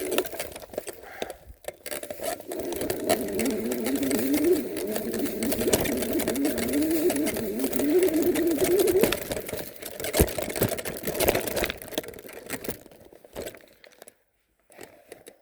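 Electric bike hub motor whining, its pitch wavering up and down with speed, over a rush of wind and tyre noise. The sound fades away near the end.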